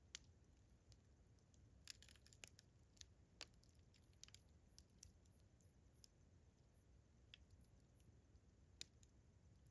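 Wood campfire crackling softly, with scattered sharp pops and snaps, most of them bunched together between about two and three and a half seconds in. Behind them, crickets chirp faintly and steadily.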